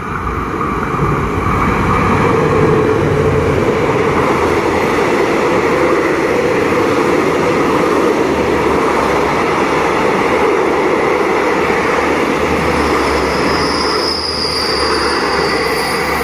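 Long passenger train, the coupled Special Express 37/45, running through the station: a loud, steady rumble of wheels on the rails. A high squealing tone comes in near the end.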